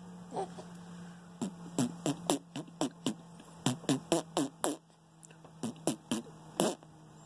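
A man making fake fart noises for a baby: about sixteen short, sharp blurts, each dropping quickly in pitch, in three quick runs with short pauses between.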